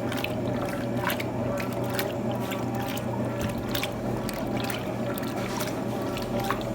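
Electrolux TOP8A top-loading washing machine running: a steady motor hum with water sloshing and irregular clicks and knocks.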